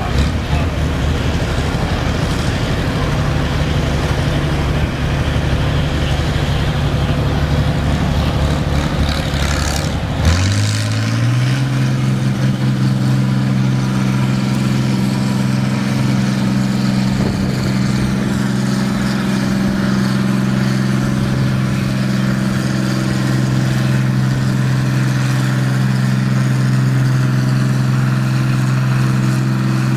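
Naturally aspirated pulling tractor's engine running at a low, rumbling speed, then revved up about a third of the way in and held at a steady high rpm.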